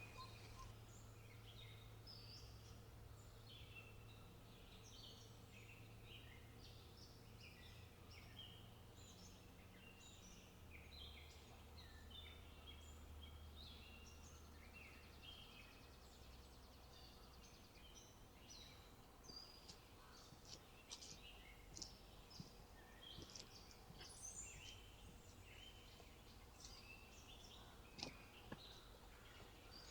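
Faint birdsong: many small birds chirping and twittering at once over a quiet background, with a couple of faint clicks near the end.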